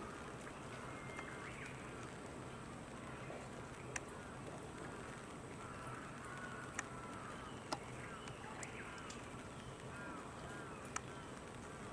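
Faint outdoor ambience: distant bird calls come and go over a steady background hiss and hum, with a few sharp ticks spread through it.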